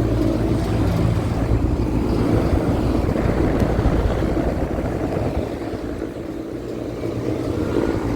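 Goodman five-ton package air conditioner running: a steady low hum under the rush of its condenser fan, with the compressor thought to be a Copeland scroll.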